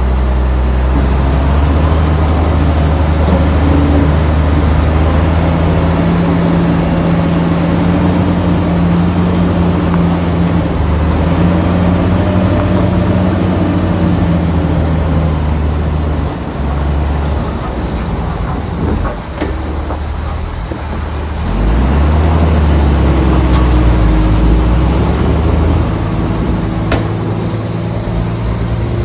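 Heavy diesel engine of earth-moving machinery running under load. It eases off about 16 seconds in and revs back up about 21 seconds in, with a few sharp knocks along the way.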